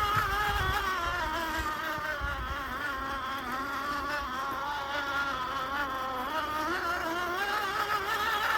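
Axial SCX10 II RC crawler's electric motor and gear drivetrain whining steadily as it drives, the pitch wavering up and down with the throttle and rising a little near the end.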